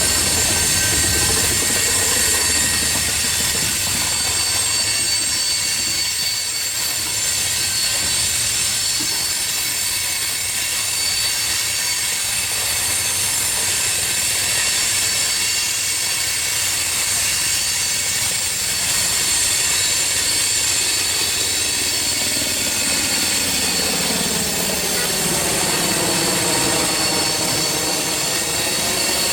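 Freight train cars rolling past with steady, high-pitched wheel squeal and rail noise. Over the last few seconds a low drone with sweeping tones joins in.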